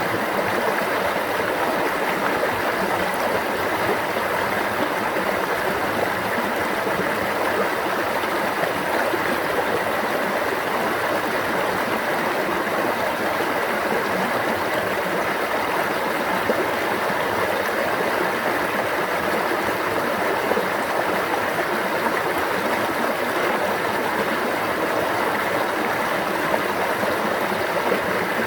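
A stream of running water, an even, unbroken rush.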